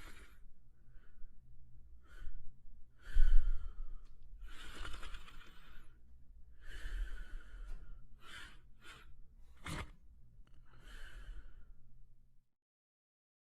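Sleeping French spaniel breathing in soft, breathy snores, one about every one to two seconds. A low bump about three seconds in is the loudest sound.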